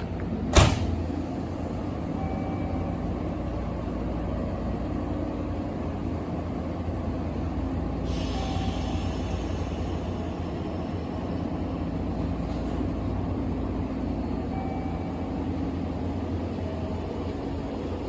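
Electric commuter train standing at the platform, its equipment giving a steady low hum, with a sharp knock about half a second in and a short hiss of air about eight seconds in.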